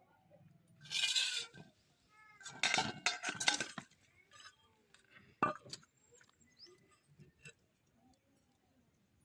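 Metal pots and utensils clinking and clattering, with a short animal call in the middle of the clatter, about two to three seconds in, and a single sharp clink near the middle.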